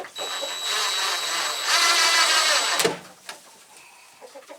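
A power tool running with a steady high whine for nearly three seconds, then stopping with a sharp click.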